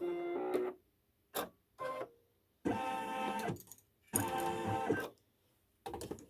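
Embroidery machine running in stop-start bursts, each a steady motor whine, with a few short clicks in between.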